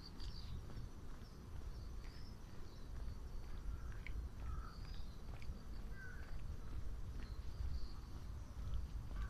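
Small birds chirping in short separate calls every second or so, over a steady low rumble.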